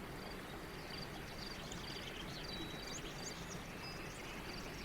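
Faint background birdsong: small birds chirping and twittering with quick high notes, one short high note repeating about twice a second, over a steady low hiss of outdoor ambience.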